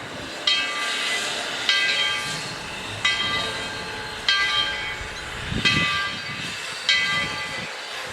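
ET&WNC No. 12 steam locomotive's bell ringing steadily, one strike about every 1.2 seconds, each ring dying away before the next, over a soft hiss of steam.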